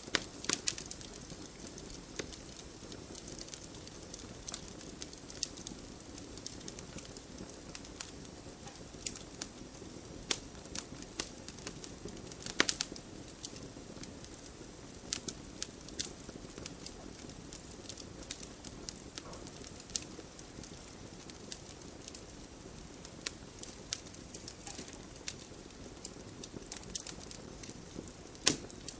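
Wood fire crackling in a fireplace: a steady low hiss of burning with irregular sharp pops and snaps, one louder pop about halfway through.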